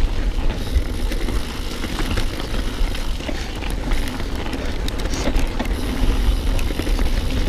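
Mountain bike riding down a wet trail: a steady rumble of moving air on the camera microphone with tyres running over mud and roots, and scattered clicks and rattles from the bike over bumps.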